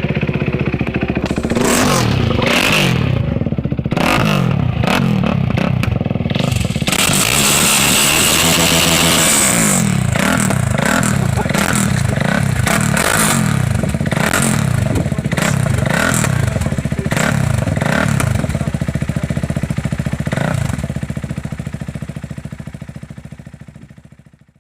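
KTM RC390's single-cylinder engine through an Akrapovic full-system exhaust, idling briefly, then revved over and over in quick blips that rise and fall in pitch. Near the end it settles back and fades out.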